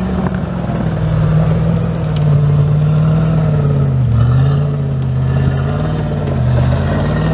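Off-road 4x4's engine running hard under load, revs held high and dipping briefly a couple of times with the throttle.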